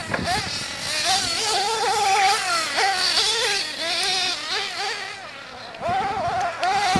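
Several small nitro RC car engines racing, a high buzzing whose pitch keeps rising and falling as the cars accelerate and brake around the track. The sound drops away for a moment about five seconds in, then picks back up.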